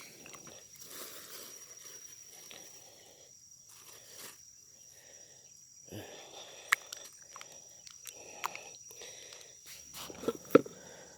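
Hands squishing and kneading fine moss bait with paste in a small plastic bucket: irregular wet rustling with a few sharp knocks, the loudest near the end. A steady high insect drone runs underneath.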